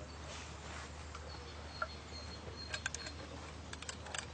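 Faint birds chirping over a quiet outdoor background, with a few light clicks and taps around three and four seconds in.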